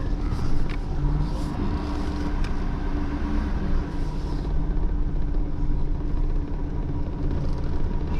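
Tow truck's engine running with a steady low rumble.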